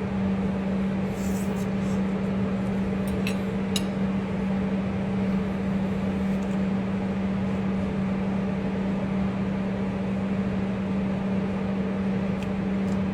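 A steady low hum over even room noise, with a few faint clicks about one second and again three to four seconds in.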